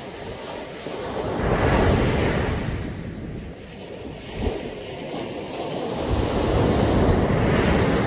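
Sea waves breaking on a beach, swelling and falling away twice, about five seconds apart, with wind on the microphone.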